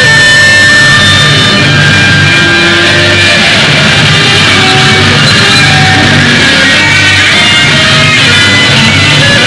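Loud distorted electric-guitar rock music with a steady beat.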